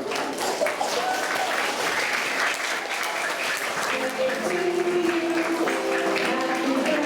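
Audience of schoolchildren applauding and calling out. About four seconds in, music with singing starts and plays alongside the clapping.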